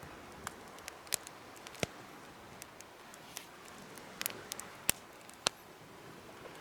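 Wood fire crackling in a homemade fire pit: irregular sharp pops and snaps over a soft hiss, the loudest a little before two seconds and about five seconds in.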